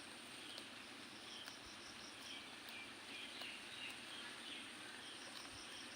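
Faint outdoor background with small birds chirping: short high notes over and over, with a quick run of repeated notes twice.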